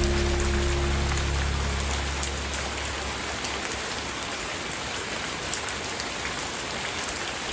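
Steady rain falling, a dense hiss with scattered individual drops ticking. The held low notes of a soft, slow musical pad fade out over the first couple of seconds, leaving the rain alone.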